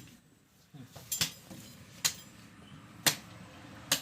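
Four sharp metallic knocks, roughly a second apart, like metal parts or tools striking each other.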